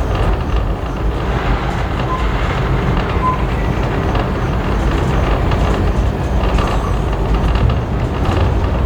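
Train running along the track, heard on board a carriage hauled by a Baldwin-built steam locomotive: a steady rolling rumble of wheels on rails.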